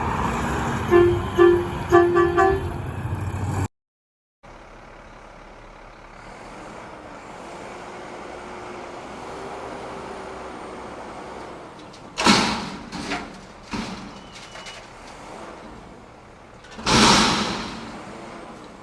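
Garbage truck: several short horn toots near the start, then the engine runs steadily, broken by a few sharp hissing bursts, two of them loud.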